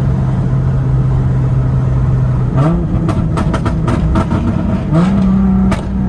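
Nissan Z's V6 engine running steadily while driving, then picking up revs twice as the car accelerates, with scattered sharp clicks over it.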